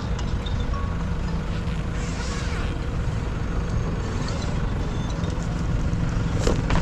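A vehicle engine running steadily with a low rumble, a few light metallic clinks, and a sharp click shortly before the end.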